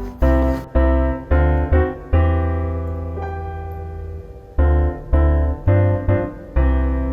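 Background piano music: a slow sequence of chords, each struck and left to fade, with one long held chord in the middle.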